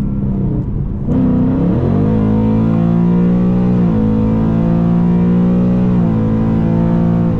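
2018 Ford Mustang GT's 5.0 L Coyote V8, fitted with long-tube headers and a resonator-delete H-pipe, pulling under hard throttle in fifth gear, heard from inside the cabin. The engine note jumps up about a second in, then holds high and climbs slowly as the car accelerates.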